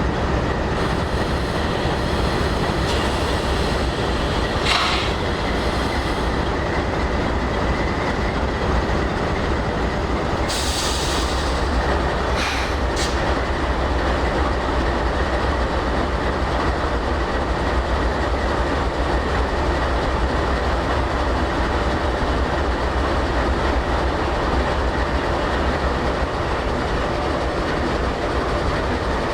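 Freight train moving on the rails, a steady rumble of wheels and cars, with short high-pitched hisses about 5, 11 and 13 seconds in.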